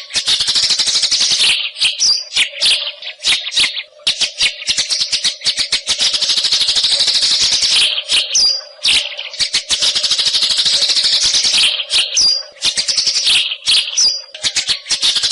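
Murai hutan songbird singing in a fast, dense chattering rattle, mixed with brief high whistled notes. It sings almost without a break, with short pauses about two, four, eight and twelve seconds in. This is the kind of song used as filler song for training contest birds.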